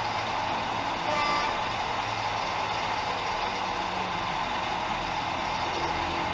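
OO gauge model locomotive with a DCC sound decoder, playing a steady running-engine sound through its speaker, with a brief higher tone about a second in.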